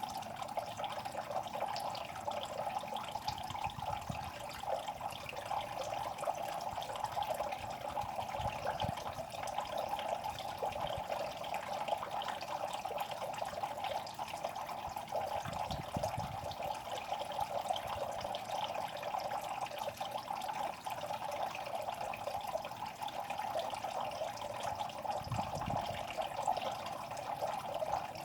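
Steady trickling, running water at a fish pond, with fine crackling higher up and a few faint low thumps.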